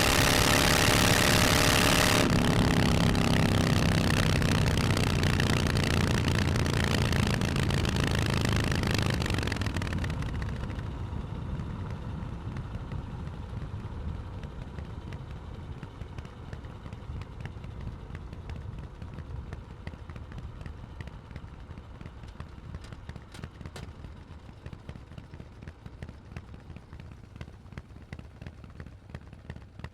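Harley-Davidson Forty-Eight's air-cooled V-twin through Vance & Hines exhausts. There is wind rush for about the first two seconds, then a steady engine note that fades away around ten seconds in as the bike slows. It settles into a quieter, lumpy idle.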